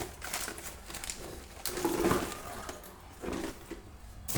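Light rustling and a few soft knocks from food packets and containers being moved about on refrigerator shelves, with a sharper knock at the end.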